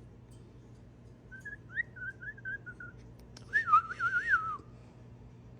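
Parrot whistling: a quiet run of short whistled notes, then, a little past halfway, a louder warbling whistle lasting about a second.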